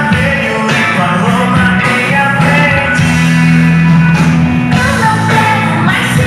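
Loud music with a singing voice and heavy bass, played through a car sound-system trailer.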